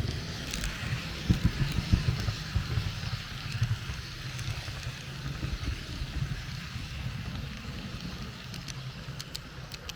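H0 model train rolling along the track, picked up by a camera riding on it: a low rumble with irregular knocks and a few sharp clicks from rail joints and points. It is loudest in the first few seconds and eases off toward the end.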